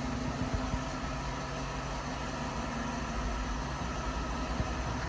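The 2011 Silverado's 5.3-litre V8 idling with a steady low hum.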